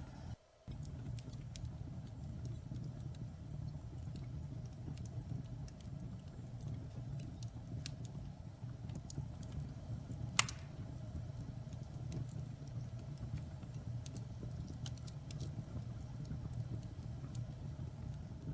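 Wood fire burning in a fireplace: a steady low rush of flames with scattered small crackles and one louder pop about ten seconds in. The sound cuts out briefly just after the start.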